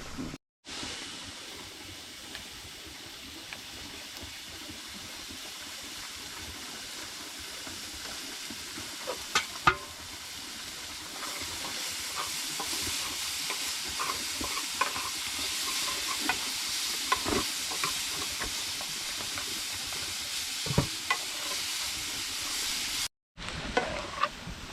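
Food frying in a pan: a steady sizzle that grows louder about halfway through, with scattered clinks and knocks of a utensil stirring.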